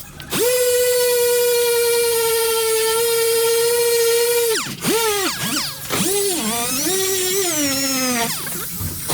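High-speed grinding tool running with a steady high whine. It stops for a moment at the start, then from about four and a half seconds in its pitch sags and wavers again and again as it slows under load against the metal.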